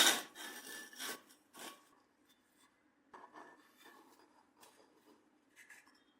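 Irregular hand rubbing strokes on a metal part, as in abrasive cleaning of rusty steel. The strongest strokes fall in the first two seconds, followed by a pause, then fainter scattered strokes.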